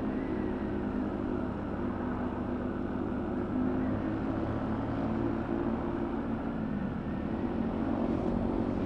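125 cc motorcycle engine running steadily while riding, with a fairly even note throughout.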